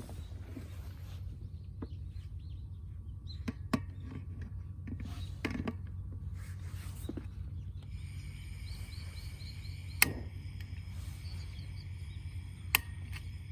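Outdoor ambience: a steady low rumble with scattered clicks and knocks, the sharpest about ten seconds in and again near the end. About eight seconds in, a steady high chirping sets in.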